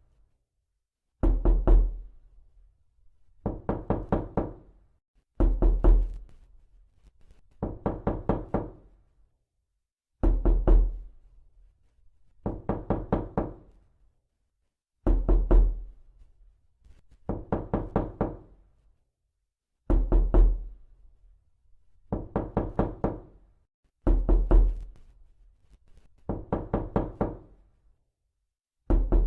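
Knocking on a door in quick runs of several raps, each run lasting about a second and repeating every two seconds or so, with silence between.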